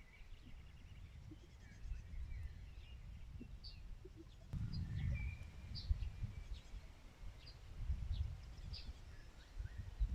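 Small birds chirping with short, scattered high calls and a few brief warbled phrases, over an uneven low rumble that swells several times.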